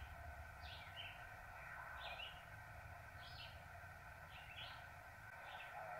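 Short, high bird chirps repeating about once a second over a faint steady hiss of HF receiver static from a radio speaker tuned to a quiet band.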